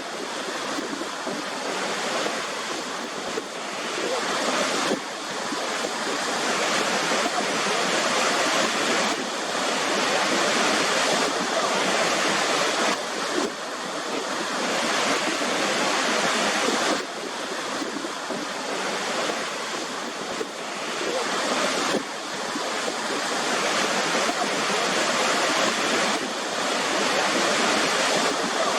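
Waterfall: a steady rush of falling water, with a few sudden small shifts in level.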